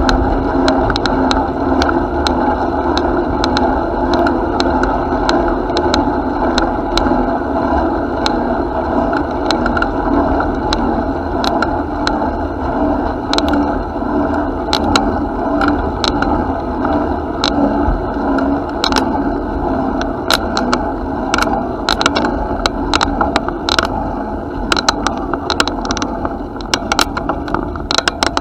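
Bicycle riding noise: a steady rush of wind and rolling rumble, with many sharp rattles and clicks from the bike over the path surface that come more often in the second half.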